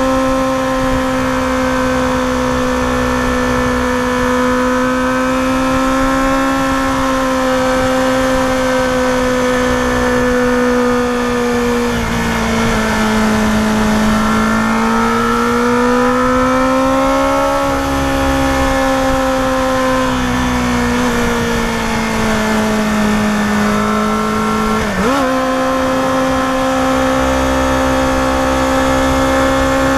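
Yamaha FZR250R's 250 cc inline-four engine running high in the revs under load, heard from the rider's seat with wind rush. Its pitch sags and rises gently through the bends, with a quick gear change about 25 seconds in.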